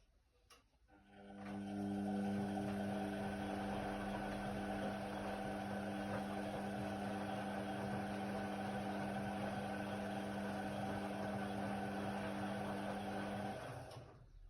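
Indesit WIDL 106 washer-dryer running with a steady hum and whir that starts about a second in and stops shortly before the end, like the drum motor turning the drum in one run of the tumble cycle.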